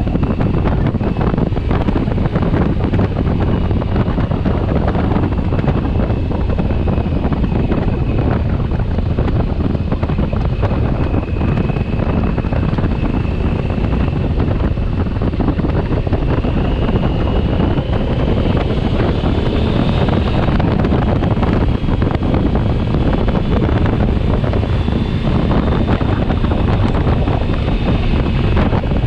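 Steady wind rush buffeting the microphone of a moving 2020 Honda Africa Twin motorcycle at speed, with the bike's running noise underneath. A faint thin whine rises slightly a little past halfway.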